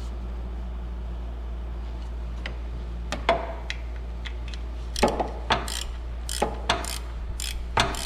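Sharp metallic clicks of a ratchet wrench working the timing-belt tensioner on a Ford Escort engine. The clicks are scattered and irregular from about two and a half seconds in, and come closer together and louder after about five seconds, over a steady low hum.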